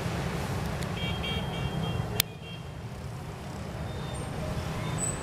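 Distant street traffic heard from high above, a steady low rumble. About a second in, a horn gives a few short beeps, and a sharp click comes just after two seconds, after which the traffic sounds a little quieter.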